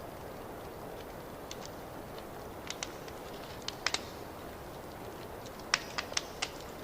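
Fireplace wood fire crackling: a steady low hiss and rumble of flames with sharp, irregular pops and snaps, a cluster of them about four seconds in and another near the end.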